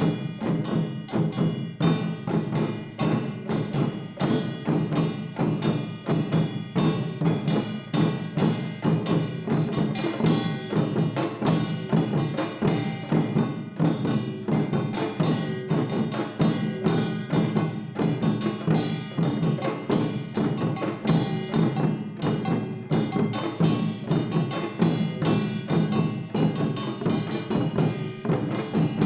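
Traditional Korean samul nori percussion ensemble playing: janggu hourglass drum, buk barrel drum, jing gong and kkwaenggwari small gong in a fast, dense, driving rhythm, with the gongs ringing over the drums.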